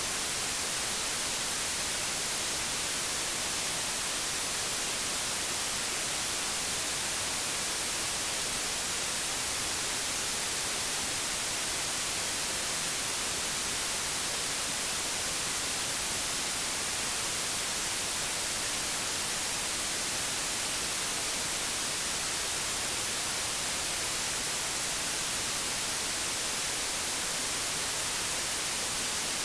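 Analogue television static: a steady, even hiss weighted toward the high end, with no change throughout.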